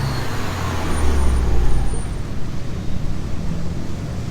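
BMW F30 running through a new full stainless-steel exhaust with a custom downpipe: a low engine note that drops in pitch in the first couple of seconds, over steady road noise.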